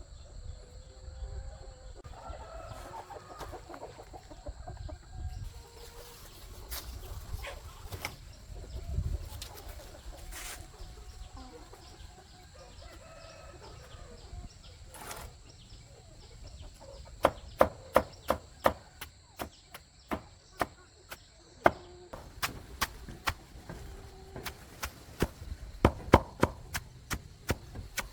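Domestic chickens clucking. A little past halfway a quick run of sharp knocks starts, about two to three a second, louder than the clucking.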